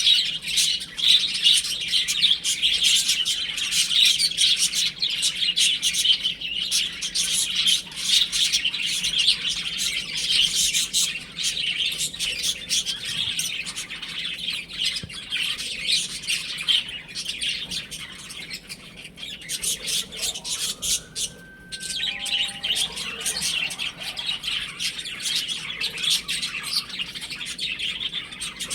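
A group of baby chicks peeping continuously: many short, high chirps overlapping with no break.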